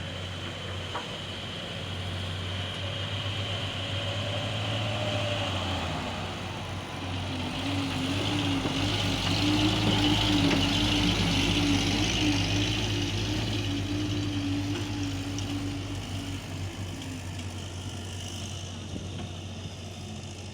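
Old Bedford truck's diesel engine running, growing louder through the middle and easing off near the end.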